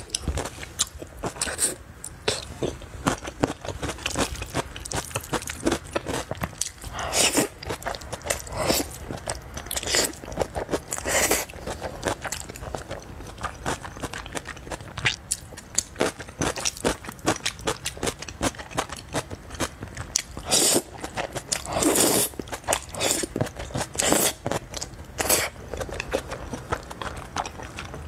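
Close-miked eating sounds: crisp crunching bites and chewing of pickled yellow radish and raw onion pieces, with a run of crackly clicks and several louder crunches.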